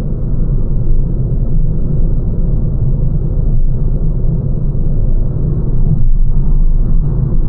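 Steady low rumble of a small hatchback being driven, heard from inside the cabin: road and tyre noise.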